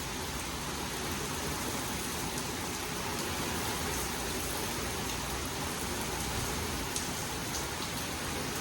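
Heavy rain falling steadily during a passing thunderstorm, with faint scattered drop ticks.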